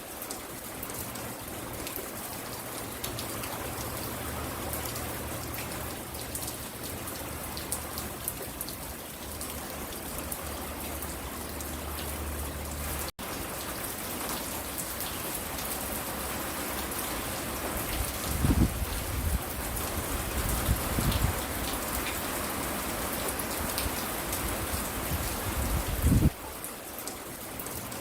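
Steady rain falling, an even hiss of drops, with a low hum underneath for the first half. The sound drops out for an instant near the middle. A few loud low thumps come about two-thirds in and again near the end.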